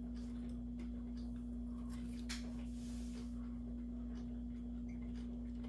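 A steady low hum, with faint scattered clicks of someone chewing a hash brown.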